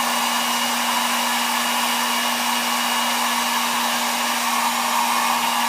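Hot-air blower running steadily with a constant hum, used to heat the phone's glass and soften the adhesive beneath it.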